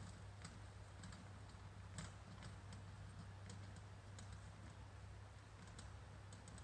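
Faint, irregular light clicks, a few a second and unevenly spaced, over a steady low hum.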